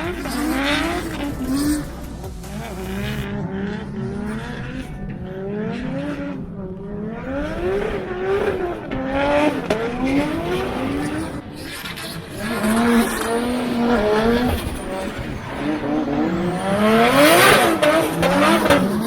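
Drift car engines revving hard, rising and falling again and again through the runs, with tyre squeal. The loudest moment comes near the end, as a car revs up sharply and passes close.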